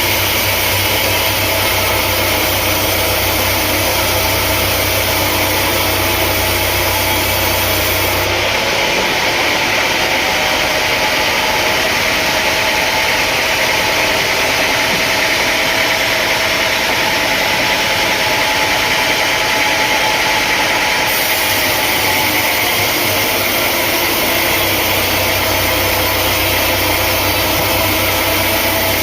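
Steady, loud running of sawmill machinery with an engine-like hum. The low hum drops out abruptly about eight seconds in and comes back after about thirteen seconds.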